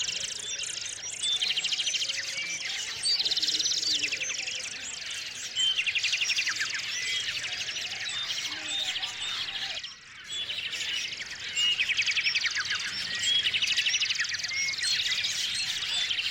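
Small songbirds chirping continuously, with a short trilled song phrase coming back every two to three seconds over the chatter of many quick chirps.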